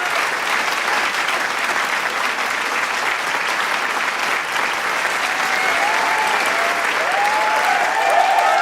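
A large crowd clapping steadily, with cheering voices and shouts rising in over the second half.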